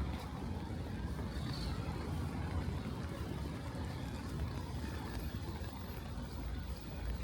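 Rainy city street ambience: a steady low rumble of road traffic under an even hiss of rain.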